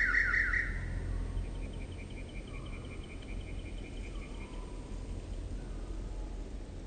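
Birds singing by a pond. A loud trill of rapidly repeated falling notes fades out in the first second, then a fainter bird repeats quick high notes for about three seconds, over a steady low background rumble.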